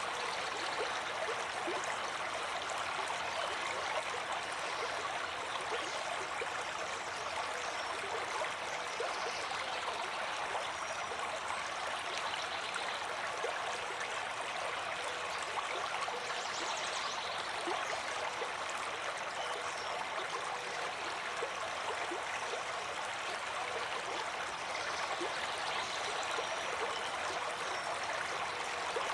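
Water flowing in a stream, a steady, even rush with no pauses.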